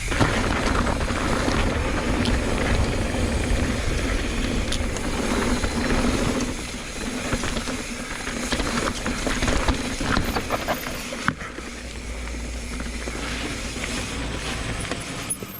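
Mountain bike riding fast down a rough dirt trail: wind rushing over the microphone, with tyres on dirt and the bike rattling and clicking over bumps. It eases a little about two-thirds of the way through.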